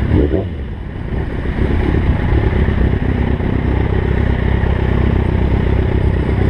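Kawasaki ZX-6R inline-four sport-bike engine under way: a short rev rises and falls right at the start, the throttle closes, and from about a second and a half in the engine settles into a steady low running note.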